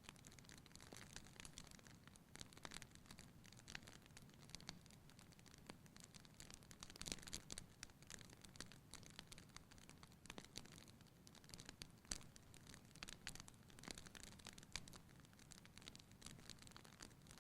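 Wood fire burning in a fireplace: frequent faint, irregular crackles and pops over a low steady hiss, with a sharper pop about twelve seconds in.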